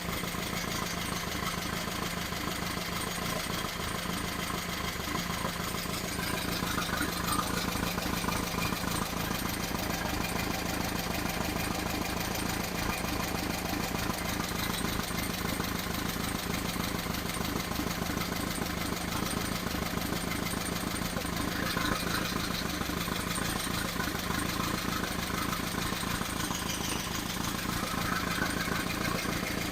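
Engine running steadily during its camshaft break-in run, with a few slight swells in level.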